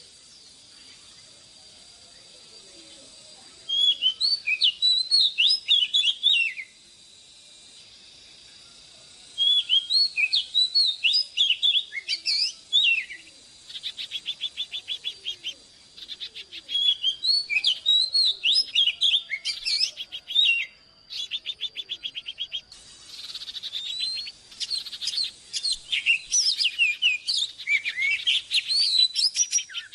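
Oriental magpie-robin singing: bursts of varied, clear whistled phrases with pauses of a few seconds between them, some phrases made of fast repeated notes.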